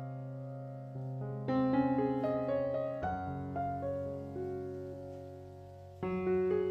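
Slow, gentle piano music: sustained chords with new notes struck about every second or two, a fresh chord entering about six seconds in.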